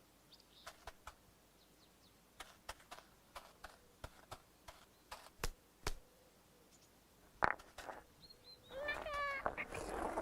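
Faint, scattered light clicks and taps, then about eight and a half seconds in a short, high warbling call.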